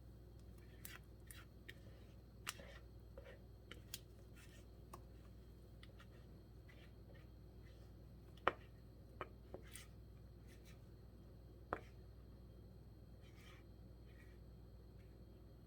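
Faint, scattered clicks and light knocks of plastic kitchenware being handled, the sharpest two a little past halfway and about three-quarters of the way through, over a low room hum.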